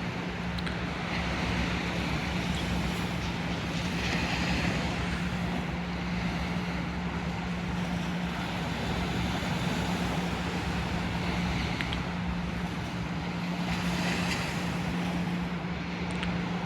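Steady vehicle running noise with a constant low hum.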